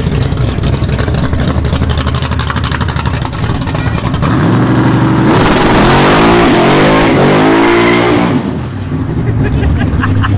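Vehicle engine idling with a rapid, pulsing exhaust note. About halfway through it is revved up and down for roughly four seconds, louder, then drops back to idle.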